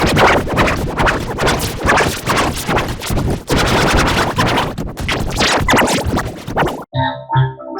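Harsh, heavily distorted noise with a scratchy texture, typical of an audio-effect edit. Near the end it cuts off suddenly and a melody of short keyboard notes begins.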